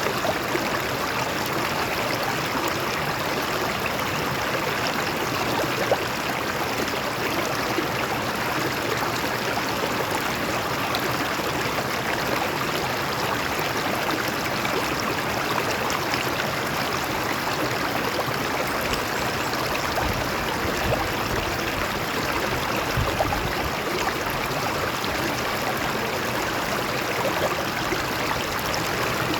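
A stream of water running steadily over rocks, splashing and gurgling.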